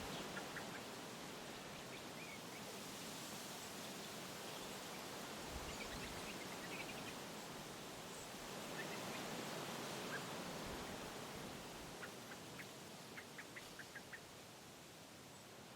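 Wind blowing through trees, a rushing noise that swells and eases in gusts, with faint short bird calls here and there, including a quick run of them near the end.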